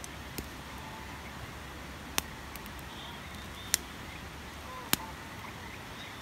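Wood campfire crackling, with four sharp, isolated pops a second or more apart over a steady background hiss.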